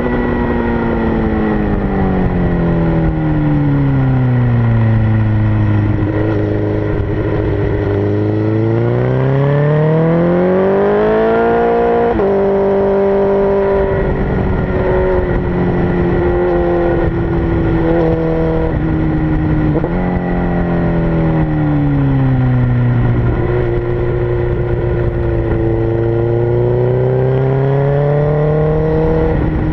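2006 Suzuki GSX-R1000's inline-four engine at track speed, with wind rush: the engine note falls away for several seconds, runs low, then climbs and drops sharply at a gear change about twelve seconds in. It holds fairly steady with a few small steps, falls again, and climbs once more near the end.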